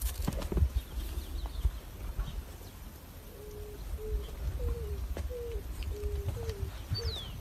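A bird cooing in a regular series of short, low notes, about two a second, starting about three seconds in, over a low rumble of wind on the microphone. A few sharp knocks come in the first second.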